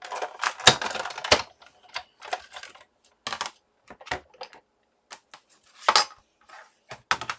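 Irregular clicks and clacks of hard die-cutting plates and thin metal dies being handled and set down on a desk, with the sharpest knock just under a second in.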